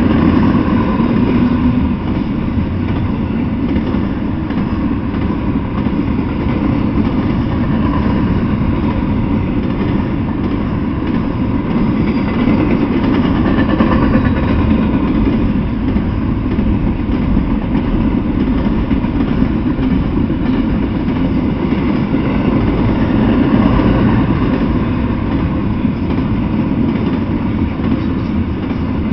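Double-stack intermodal freight train rolling past, container-laden well cars running on the rails with a steady, loud noise of wheels on track.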